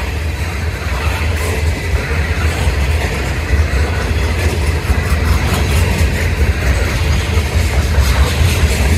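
Freight train's covered hopper cars rolling past, a steady low rumble of steel wheels on rail with a rapid clicking that grows a little louder toward the end.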